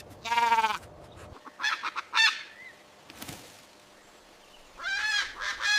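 Calls from a domestic fowl, played in three bouts: one call at the start, a pair about two seconds in, and more calls near the end.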